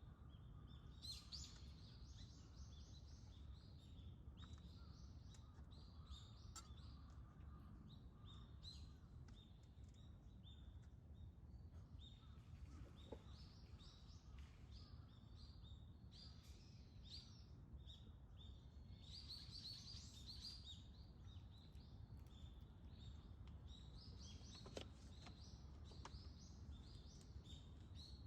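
Faint chirping and calling of small birds, many short calls scattered throughout, over a steady low background rumble.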